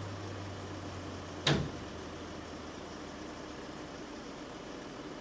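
Heavy diesel engine of an arriving forestry machine running with a steady low drone. A single sharp knock comes about a second and a half in, and after it the drone fades to a fainter rumble.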